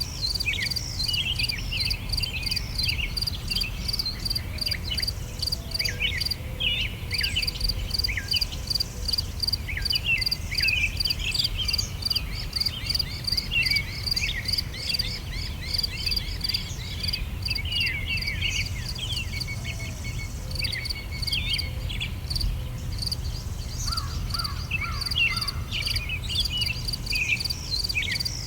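Summer outdoor ambience: several songbirds chirping and singing in short, overlapping phrases, over insects chirping in a fast, even pulse that drops out now and then. A low steady rumble runs underneath.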